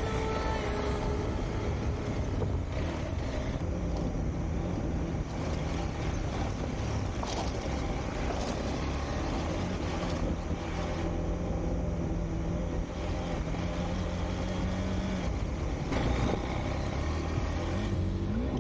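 KTM 390 Adventure's single-cylinder engine running at a steady pace while being ridden, its note holding one pitch for long stretches over continuous road and wind noise.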